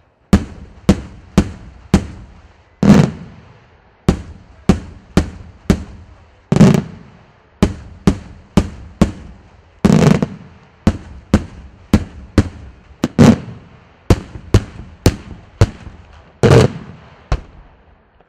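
Daytime aerial fireworks shells bursting in quick succession: sharp bangs about two a second, with heavier, longer booms about every three seconds. The bangs stop shortly before the end.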